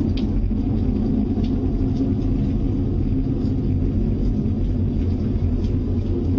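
A steady low rumbling drone, like the unexplained 'strange sounds' reported from the sky, holding an even level throughout.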